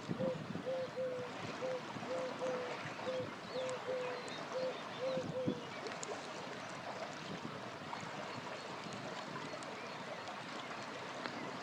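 River water rushing steadily, with scattered crackles and pops from a campfire. A short low call repeats about twice a second for the first five seconds or so, and faint high bird chirps come through after it stops.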